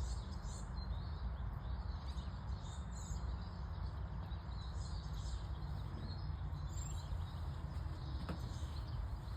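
Small birds chirping intermittently over a steady low rumble of outdoor background noise.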